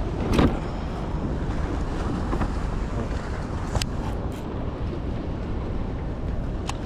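Wind buffeting the microphone in a low, steady rumble, with three short light clicks or knocks: one about half a second in, one around the middle and one near the end.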